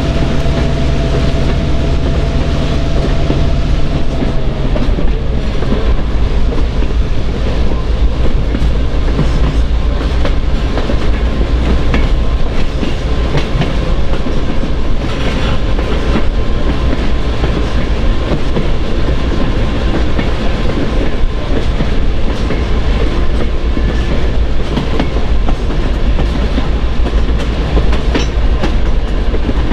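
Train running on the rails, a steady rumble with the clickety-clack of wheels over rail joints. A steady tone and a pitched hum stop about four seconds in.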